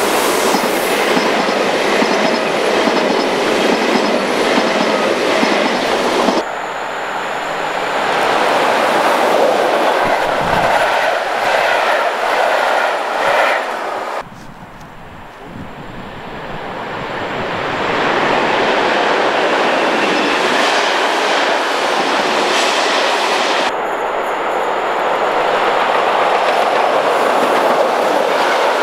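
Trains passing at speed: a white ICE high-speed train rushes past, then after a brief quieter stretch a red electric locomotive with a long train of open freight wagons approaches and runs by, the noise building up again.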